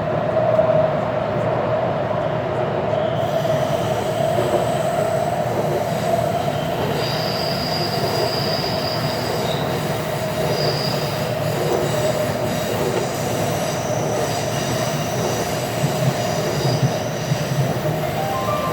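Taipei Metro C341 train running between stations, heard from inside the carriage: a steady rumble and hum from the wheels and motors, with high-pitched wheel squeal from about seven to eleven seconds in and fainter squeals after.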